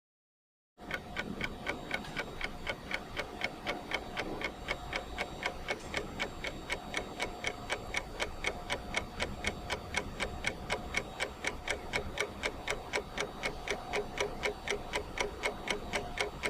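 Ticking clock sound of a countdown timer: a steady run of even, sharp ticks, a few per second. The sound cuts out completely for about a second at the very start, then the ticking resumes.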